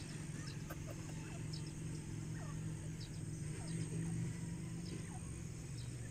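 Faint francolin (teetar) calls: short falling notes repeated every half second or so, with small high ticks, over a steady low hum.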